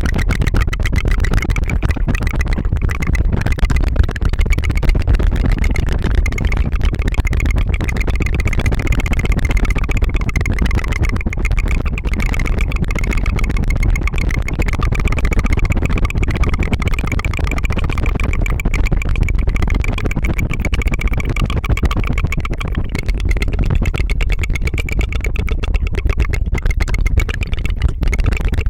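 Rapid tongue fluttering close to the microphone: a steady, unbroken engine-like 'brrr' trill.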